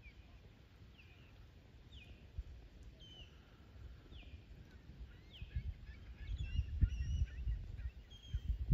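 A bird calling from the wooded shore, a short falling note repeated about once a second, with more varied chirps joining in the second half. Low rumbles of wind buffeting the microphone grow stronger in the second half.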